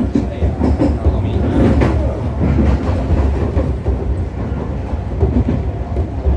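Iyo Railway rail car running, a steady low rumble with scattered clicks of wheels over the rails.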